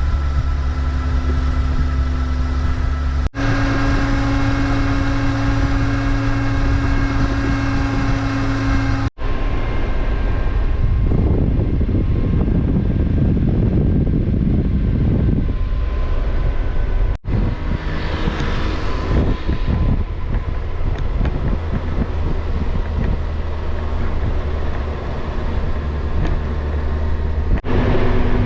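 A vehicle engine running steadily under way, with road and wind noise. The sound is several clips spliced together, each breaking off abruptly, with a rougher, noisier stretch in the middle.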